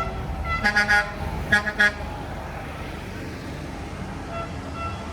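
Truck horns honking in short blasts, three in quick succession and then two more, over the low rumble of the parade trucks' engines.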